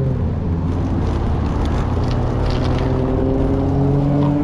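Passing road traffic: a steady rush of tyre and road noise with a vehicle engine's drone that fades near the start and then returns, rising slowly in pitch over the second half.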